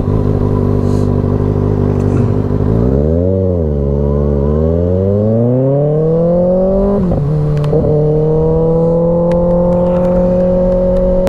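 2024 Kawasaki Ninja ZX-6R 636's inline-four engine under way: the revs dip briefly, then climb steadily as the bike accelerates. About seven seconds in, they drop sharply at an upshift, then rise slowly again in the next gear.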